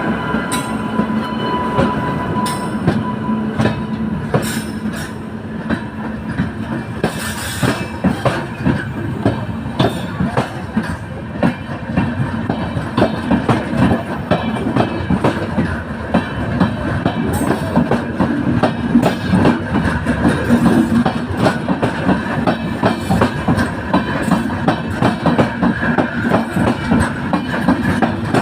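Awadh Express passenger train moving off, its wheels clicking over the rail joints in a dense rhythm of clicks. A steady hum fades out a few seconds in.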